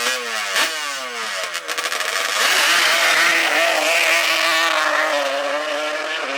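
Off-road racing engine running hard at high revs. In the first second and a half the pitch drops sharply and jumps back several times, then it holds a high, steady note that slowly sinks.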